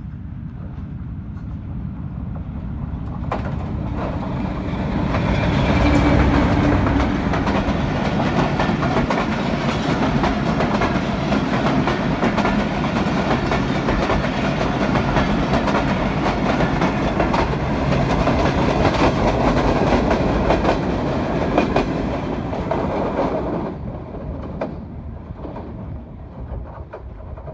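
A train passing close by, its wheels clattering over the rail joints. It builds up over the first few seconds, stays loud through the middle and fades away near the end.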